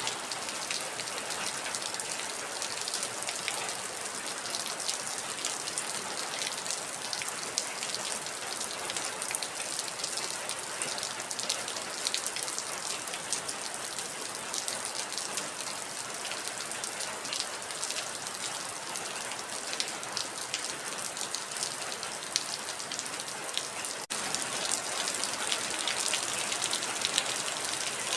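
Heavy rain falling steadily: a dense hiss with many individual drops pattering on a surface. About 24 s in it cuts out for an instant and comes back slightly louder.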